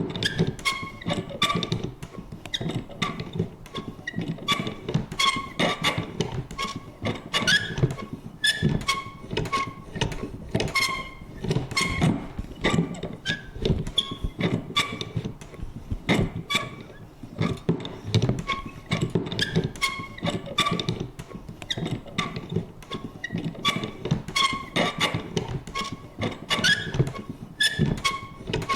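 Vintage paper punch being worked over and over: short squeaky creaks mixed with sharp clunks, about one or two a second, in an uneven rhythm.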